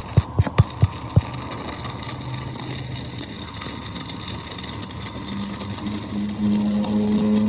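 Hammer blows on metal at about three a second, stopping about a second in. They give way to a steady mechanical drone with a low hum that grows louder near the end.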